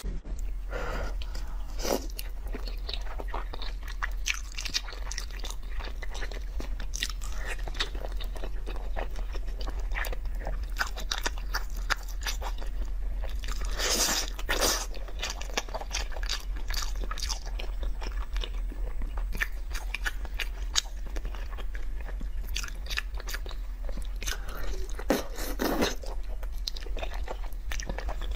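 A person chewing and biting saucy braised meat: a steady run of small wet mouth clicks and smacks, with a few louder bites about halfway through and again near the end.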